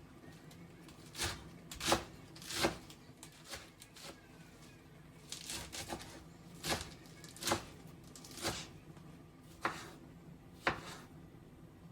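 Knife chopping food on a cutting board in slow, uneven single strokes, roughly one a second.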